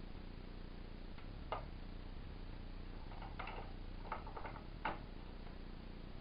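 A few short, sharp plastic clicks and light knocks from the case parts and connectors of a Synology NAS being fitted back together by hand. One comes about a second and a half in, then a cluster of them between three and five seconds, over a steady low hum.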